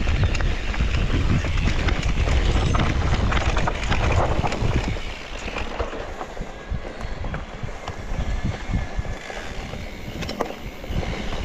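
Mountain bike riding down a rough trail: wind buffets the microphone with a heavy rumble, and the bike rattles and knocks over bumps. The wind rumble eases about five seconds in, leaving mostly the clattering knocks.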